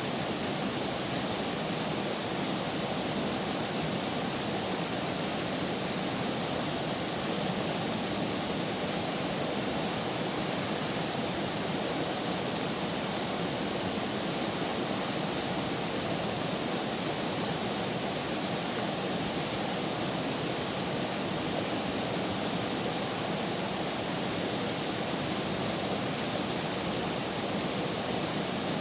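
River water running and rushing steadily, an even unbroken wash of water noise.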